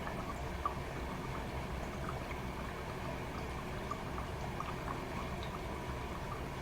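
Toshiba AW-42SEE4 fully automatic washing machine running, with a steady rush of water in the tub, a low hum and small scattered drips and splashes.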